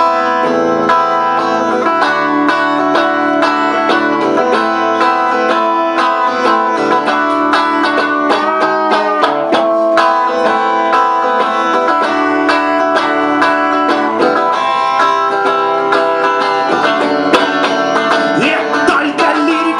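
Instrumental break in a live song: plucked strings picking a quick run of notes over held chords, with no singing.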